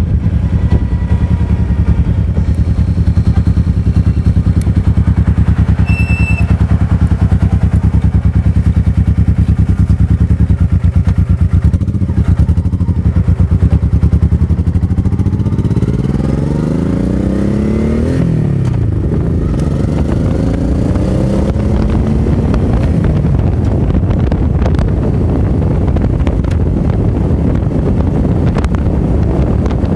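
Motorcycle engine running steadily under way. Just past halfway its pitch climbs for about two seconds and then drops again, as the bike speeds up and eases off.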